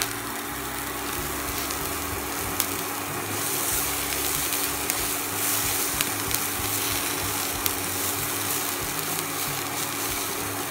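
Chopped onion and capsicum sizzling in a nonstick frying pan while a silicone spatula stirs them, with a few light clicks of the spatula against the pan. A steady low hum runs underneath.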